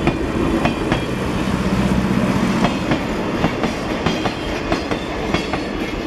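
Train hauled by the 1225 steam locomotive rolling on the rails: a steady rumble with wheels clicking sharply over rail joints several times a second.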